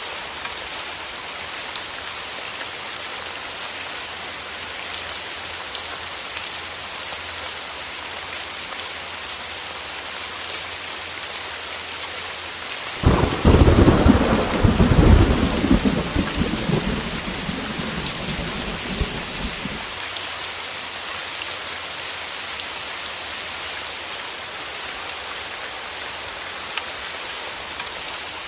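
Heavy rain falling steadily, with a clap of thunder about halfway through that breaks in suddenly and rumbles for several seconds before dying away under the rain.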